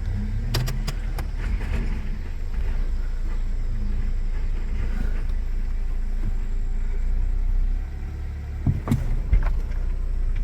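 1999 Toyota Corolla's 1.8-litre four-cylinder engine running steadily at low speed, freshly filled with new oil, as the car is backed down. A few sharp clicks or knocks come near the start and again about nine seconds in.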